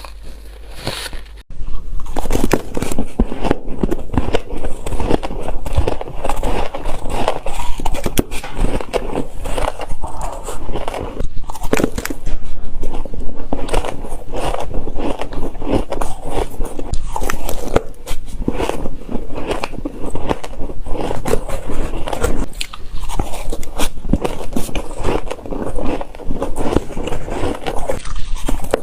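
Close-miked biting and chewing of shaved ice: dense, crackly crunching that goes on with hardly a break, starting abruptly a second and a half in.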